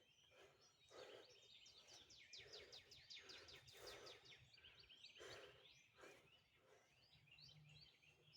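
Faint birdsong over a quiet outdoor background: quick down-slurred chirps repeated in runs, busiest a few seconds in.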